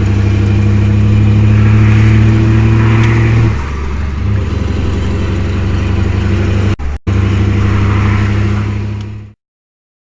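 Scania R620's V8 diesel running loudly and steadily; about three and a half seconds in its note drops and quietens. The sound cuts out twice very briefly around seven seconds in, then stops abruptly shortly before the end.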